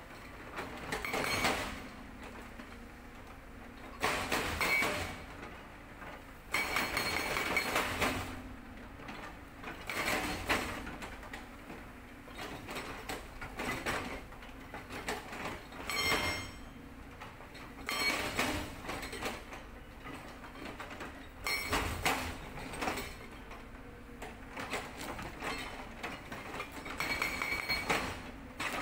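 Sangdo SD220 hydraulic breaker on a Cat 320D excavator hammering rock in short bursts of one to two seconds, about a dozen times, with lower steady machine noise between the bursts.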